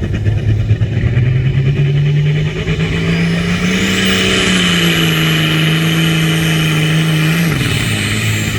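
Tractor engine pulling under load: it revs up over the first few seconds, holds high revs, then drops off suddenly near the end. A high whine rises and holds along with it.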